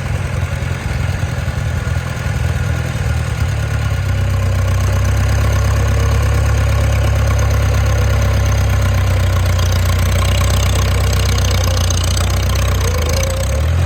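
1954 Farmall Super C tractor's four-cylinder gasoline engine running steadily while driving, growing louder about four seconds in and easing off near the end.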